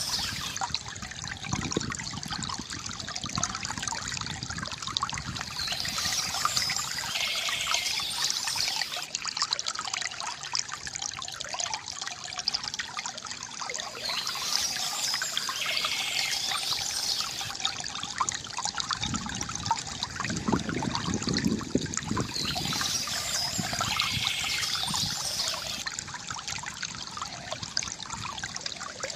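Water from a bamboo fountain trickling and gurgling steadily.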